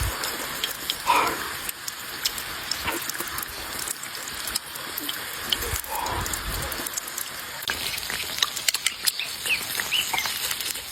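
Cooking oil sizzling and crackling steadily as pieces of dried tofu deep-fry in a pan. A short voice-like sound comes about a second in and another about six seconds in.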